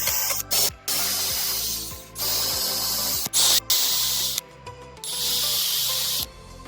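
Repeated bursts of hissing spray, each about a quarter second to a second long, about five in all, over background music.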